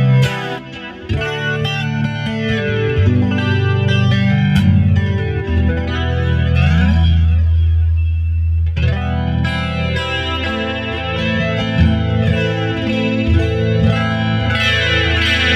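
Mexican-made Fender Stratocaster played on its middle pickup through a clean amp setting with a touch of chorus: picked chords ring out, with a low note held for about three seconds midway.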